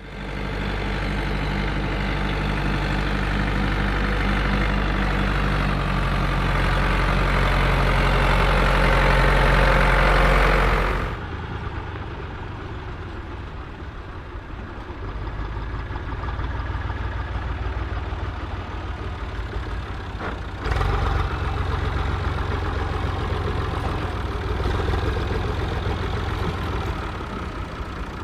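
Vintage tractor engines running steadily. A deep engine note grows louder over the first ten seconds, then gives way abruptly to other running engines about eleven seconds in, with another sudden change about twenty seconds in.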